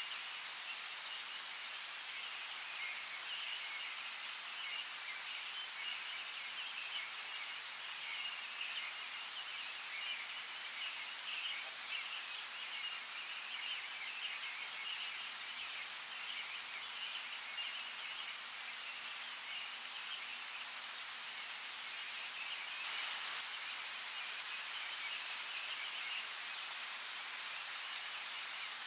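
Steady rain pattering, with individual drops ticking, under a dense chorus of birds chirping that is thickest in the first half. The rain swells briefly a little over twenty seconds in.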